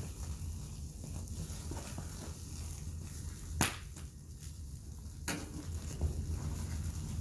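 Wood fire burning in the open with a steady low rumble and a few sharp crackling pops. The loudest pop comes about three and a half seconds in, and another follows a couple of seconds later.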